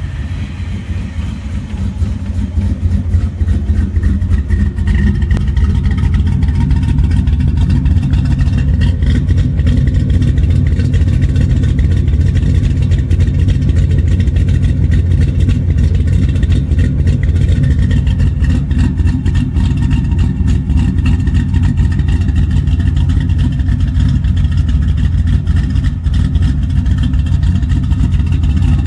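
1995 Pontiac Trans Am V8 engine running steadily at idle, a loud, deep rumble that builds over the first few seconds and then holds level.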